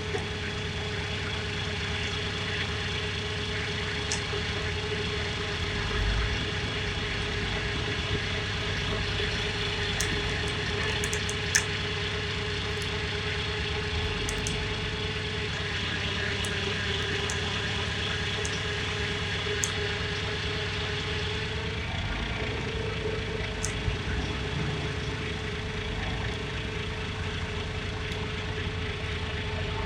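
Heavy tow truck's engine running steadily, with a constant tone over it that shifts slightly about two-thirds of the way through, and a few light clicks.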